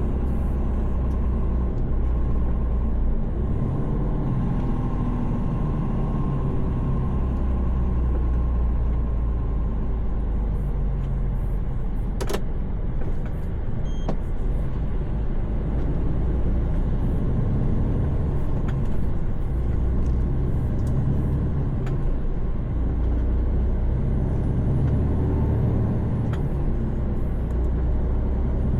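Mercedes-Benz Actros truck's diesel engine and tyre noise heard from inside the cab while cruising on the motorway, a steady low drone. A single sharp click about twelve seconds in.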